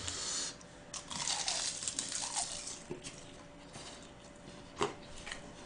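Quiet eating sounds: chewing and wet mouth noises from a man eating gwamegi, half-dried fish, with a few light clicks, the sharpest about five seconds in.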